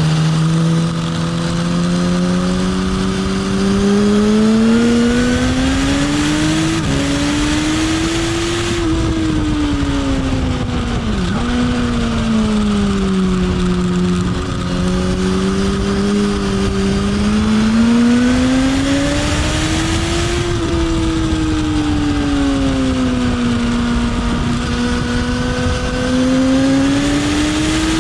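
Sports motorcycle engine under hard riding on a race track, rising in pitch under acceleration and falling off into corners several times, with a quick shift about seven seconds in, all over steady wind rush.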